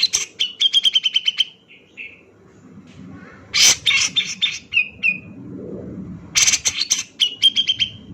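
Grey-cheeked bulbul (cucak jenggot) singing in three loud phrases, at the start, about three and a half seconds in and near the end; each opens with a harsh burst and runs into a rapid string of short notes, about eight a second.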